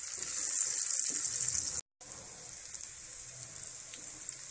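Eggs sizzling in hot oil in a frying pan while being stirred with a spatula, a steady high hiss. It cuts out for a moment about two seconds in and comes back quieter.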